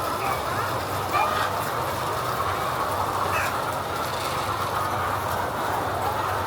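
Steady din of a poultry house: a dense mass of hens calling over a low mechanical hum, with a few single hen calls standing out about a second and three seconds in.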